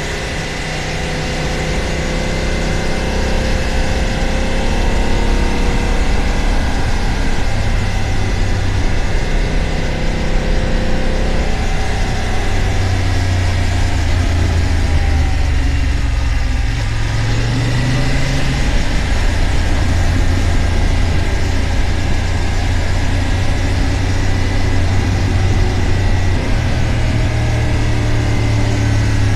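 BMW F900 GS Adventure's parallel-twin engine running under way, heard from the rider's helmet with wind noise over it. The engine note shifts up and down as the bike changes speed, with a brief drop about halfway through before it picks up again.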